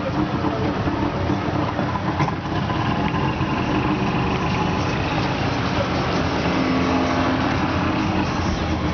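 Motorboat engine running steadily under way, with a dense rush of noise over it.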